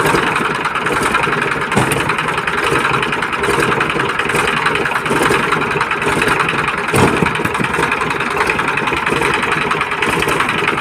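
Tractor engine running steadily, with a knock about two seconds in and another about seven seconds in.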